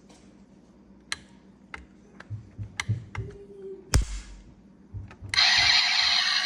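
Scattered hard clicks and knocks, like plastic toy parts being handled, with one sharp knock just before four seconds in. About five seconds in, a loud steady hissing noise starts abruptly.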